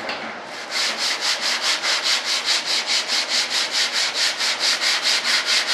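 Sanding block with 80-grit sandpaper rubbed back and forth over the model's stabilizer in quick, even strokes, about six a second, starting just under a second in.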